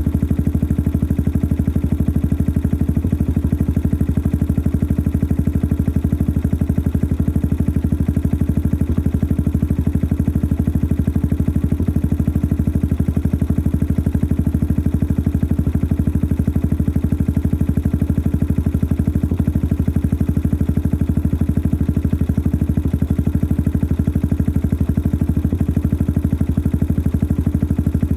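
Yamaha XT 600 43F's single-cylinder four-stroke engine idling steadily through its modified stock exhaust: a loud, even stream of exhaust pulses with some mechanical clatter, typical of a noisy engine.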